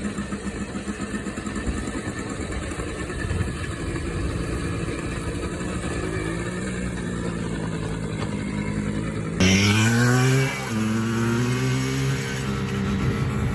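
Pit bike engine running steadily. About nine seconds in, an abrupt cut brings in a louder engine that revs up, its pitch rising, then runs at a steady pitch.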